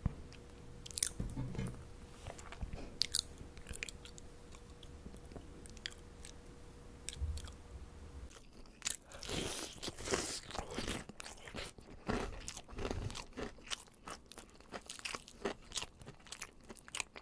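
Close-miked chewing and biting of marshmallows, with sparse mouth clicks at first and busier, denser chewing from about halfway on. A faint steady hum sits under the first half and stops about halfway.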